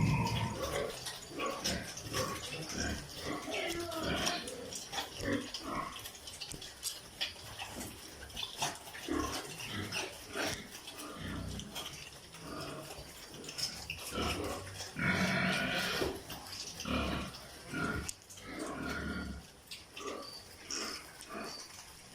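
Pigs grunting and calling irregularly, with a louder, longer squeal about fifteen seconds in.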